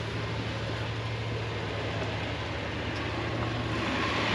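Jeep TJ engine running steadily at low revs, a low drone, with a rushing noise that builds near the end.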